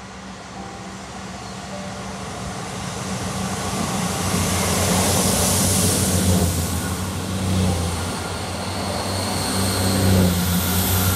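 Diesel multiple unit passenger train approaching and passing beneath the camera: its underfloor engines run with a steady low hum over the noise of wheels on rail. It grows louder to a peak about halfway through as the carriages go by underneath, and stays loud as the rest of the train passes.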